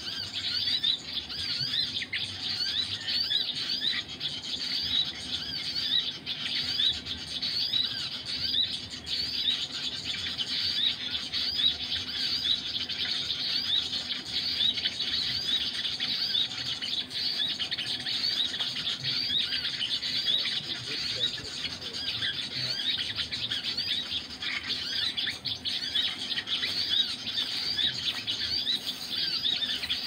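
Small birds chirping continuously: a dense, steady run of short high chirps repeating without pause.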